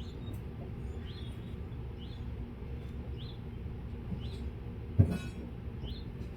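A short, high chirp repeating about once a second over a steady low rumble, with one sharp knock about five seconds in.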